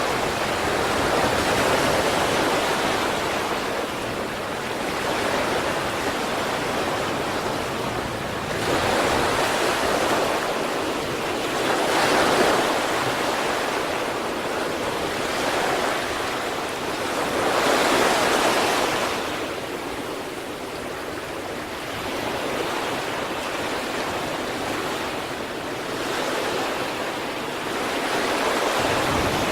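Sea waves breaking and washing on the shore, a continuous surf rush that swells every few seconds, with the loudest surges at about nine, twelve and eighteen seconds in.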